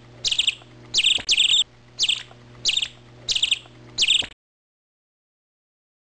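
A bird chirping: a string of short, sharp, high chirps at about two a second, cutting off suddenly a little past four seconds in, followed by dead silence.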